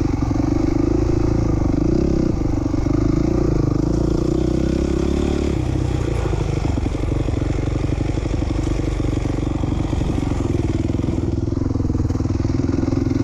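2007 450R motocross bike's single-cylinder four-stroke engine running steadily near idle, its note changing about five and a half seconds in.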